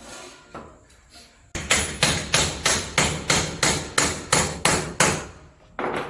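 Hammer driving nails into wooden boards: a few light taps, then a fast, even run of about a dozen strikes, roughly three a second, and one last blow near the end.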